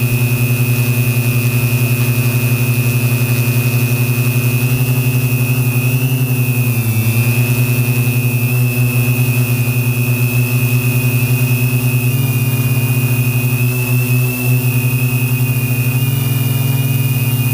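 Align M470 multirotor drone in flight, its electric motors and propellers giving a steady buzzing hum with a thin high whine above it. The pitch sags briefly about seven seconds in and shifts slightly a few times later, as the throttle changes.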